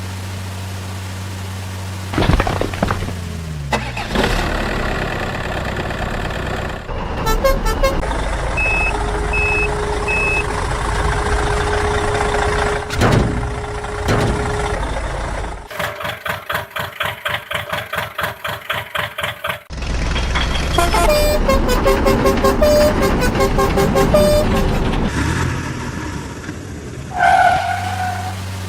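Vehicle and machinery sounds in short, abruptly cut pieces: an engine running steadily, a falling glide, three short beeps, a fast rhythmic pulsing for a few seconds, and a short horn-like toot near the end.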